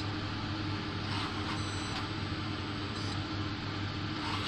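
Automatic soldering machine running with a steady hum, and a few faint ticks as it works through its solder points.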